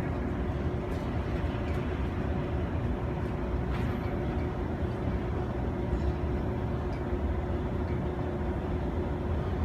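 Steady low rumble and hum of an ice rink's background machinery, with a few faint clicks.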